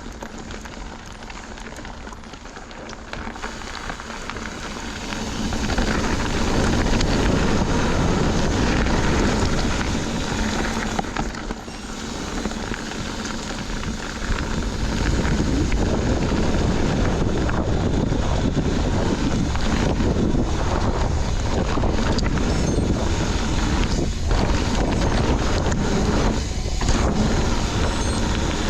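Wind rushing over the microphone and mountain bike tyres rolling and crackling over a dirt trail. The noise gets louder about six seconds in, eases around twelve seconds, then stays loud.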